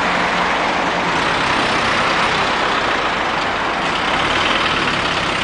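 Land Rover Defender 90's engine running steadily as it drives slowly past at close range and pulls away.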